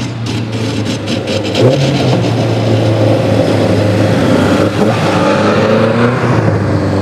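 Rally car engine running at fairly steady revs with a brief blip of throttle, and a rapid crackling in the first couple of seconds.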